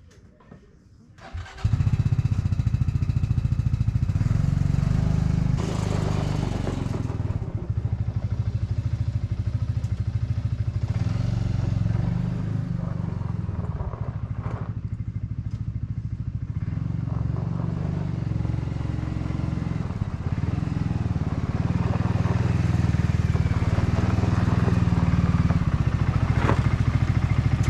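A vehicle engine runs steadily, with a low pulsing note. It comes in abruptly about a second and a half in.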